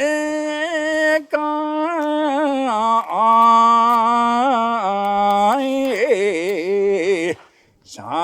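Geibikei boatman singing a Japanese folk song unaccompanied, in long held notes with wavering ornaments, pausing briefly for breath near the end.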